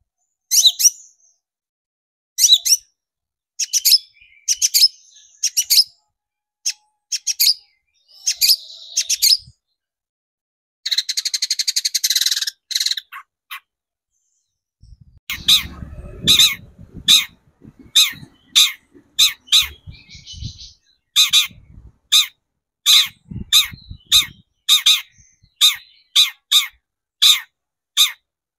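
Long-tailed shrike (cendet) calling: short, sharp, harsh notes repeated every half second or so, breaking into a dense scratchy chatter about eleven seconds in, then settling into a fast, even run of notes about one and a half a second.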